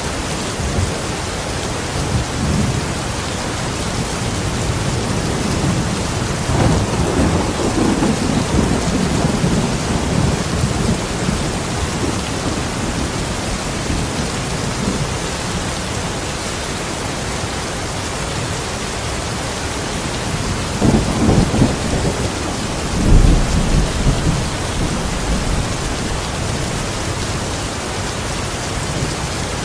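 Steady heavy rain with two rolls of thunder: a long low rumble that starts about six seconds in and lasts several seconds, and a second one with a sharper peak a little past twenty seconds in.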